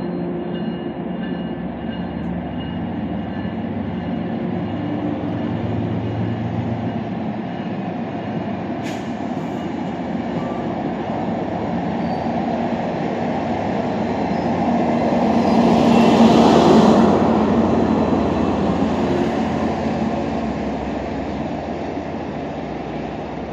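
MBTA commuter rail train departing: bilevel coaches rolling past with a steady diesel drone. The sound swells to its loudest about two-thirds of the way through as the diesel locomotive at the rear of the train passes, then fades as it pulls away. A single sharp click about nine seconds in.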